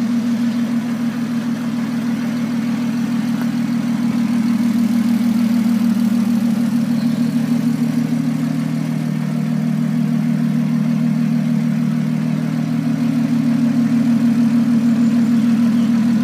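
Lotus Exige Sport 380's supercharged 3.5-litre V6 idling steadily with a low, even hum.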